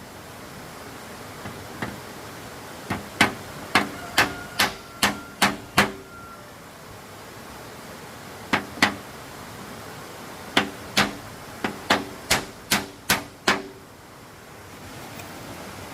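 Hammer striking wood in quick runs of blows, about two a second. There are two light taps, then about eight blows, a pause with two more, and another run of about eight, over a steady background hiss.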